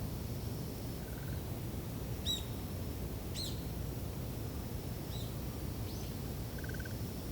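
Wind over an autumn rice field, a steady low rush, with a few short bird calls; the two clearest come about two and three and a half seconds in, with fainter calls and two brief buzzy notes later.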